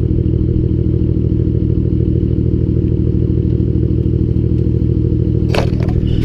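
Straight-piped 2011 Dodge Charger's 3.6-litre V6 idling steadily, its exhaust a deep, even pulsing burble. A brief clatter about five and a half seconds in.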